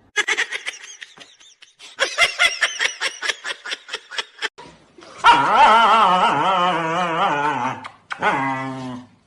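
A dog vocalising: quick runs of short yips and barks, then a long wavering howl and a shorter one near the end.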